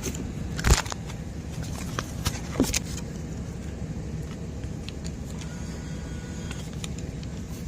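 A car engine idling with a steady low rumble, and two sharp clicks, one just under a second in and another at about two and a half seconds.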